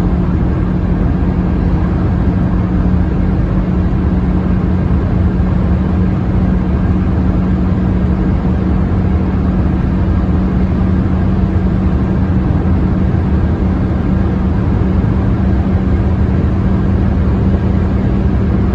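Hyundai Solaris 1.4-litre four-cylinder engine droning steadily at high revs during a top-speed run. Dense wind and road noise fill the car's cabin.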